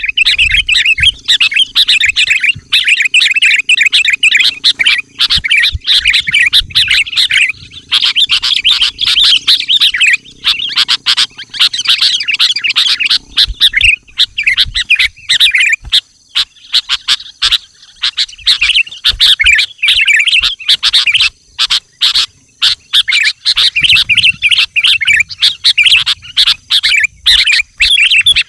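Sooty-headed bulbul singing, with fast runs of high chirps in nearly continuous phrases broken by brief pauses.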